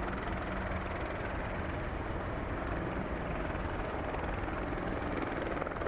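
Helicopter running close by, its rotor and engine making a steady, unbroken noise.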